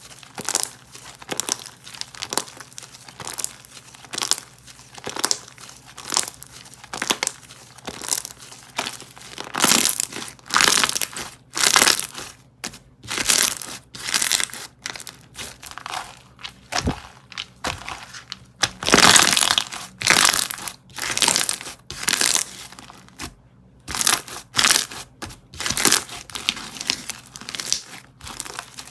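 Slime being squeezed and pressed by hand, giving repeated short crinkly, crackling bursts, one to two a second, with louder stretches about ten seconds in and again near twenty seconds.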